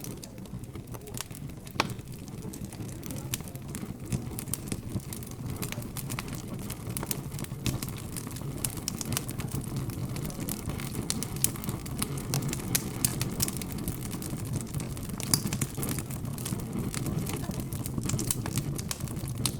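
Wood fire crackling, with frequent irregular sharp pops, over a low, steady hum of background chatter.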